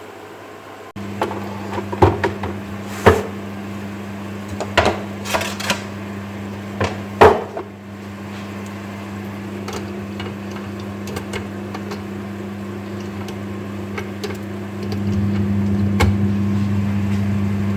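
Microwave oven running with a steady low hum that starts about a second in and gets louder near the end. Several sharp clinks and knocks of kitchenware sound over it in the first half.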